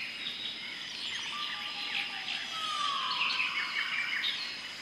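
Several wild birds chirping and calling over a steady high-pitched tone, with one call sliding down in pitch a little past halfway.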